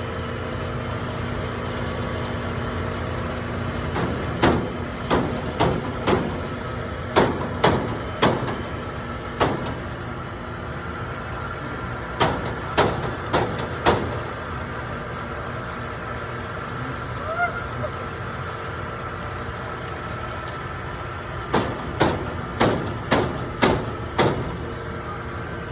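Clusters of sharp knocks and clacks from work on an air conditioner's outdoor unit, several strikes in each burst, over a steady background hum.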